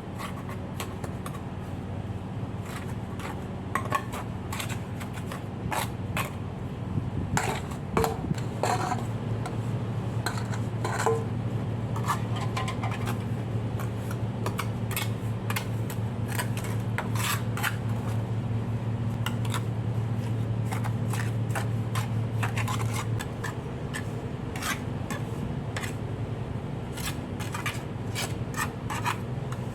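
Scraping and rubbing with many sharp clicks and knocks, over a steady low hum that grows louder for a stretch in the middle and then drops back.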